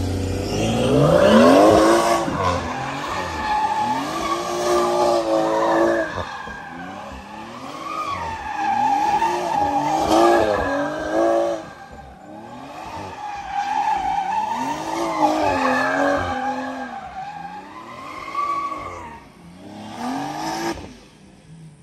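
BMW 440i's B58 turbocharged inline-six revving high and falling back over and over while the car slides in circles, its rear tyres spinning and squealing. The engine note rises and falls every two to three seconds and fades near the end.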